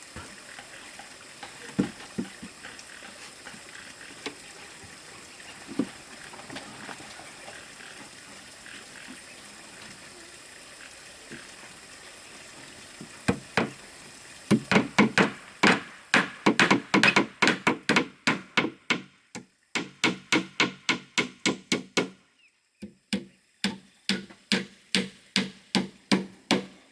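Steady rushing background with a few scattered knocks, then about halfway through a hammer begins driving nails in quick runs of ringing blows, about three a second, with two short pauses.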